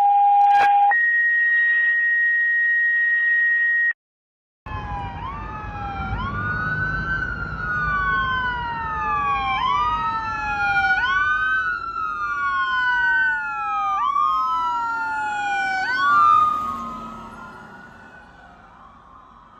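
A loud steady electronic tone that steps up in pitch and cuts off, then a fire rescue engine's sirens wailing, several wails rising and falling out of step over the low rumble of the truck. The sirens swell to their loudest as it passes near the end, then fade as it drives away on an emergency call.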